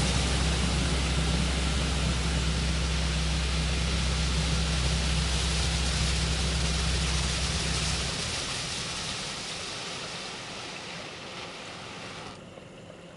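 High-pressure rinse water from a Belanger Vector automatic car wash spraying steadily against the car, heard from inside, over a low steady hum. The hum stops about eight seconds in; the spray then fades and cuts off sharply near the end.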